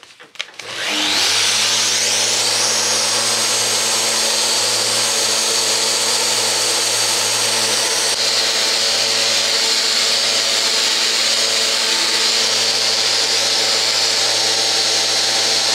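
Electric power sander starting up about a second in and running steadily at full speed, with a steady motor hum under loud abrasive hiss as it works over filled wood.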